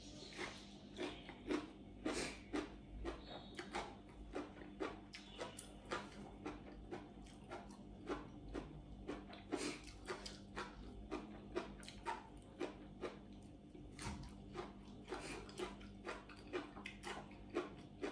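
A person chewing food by mouth, eating with her fingers from a plate of salad and fresh raw greens: a steady run of short wet chewing clicks, about two or three a second.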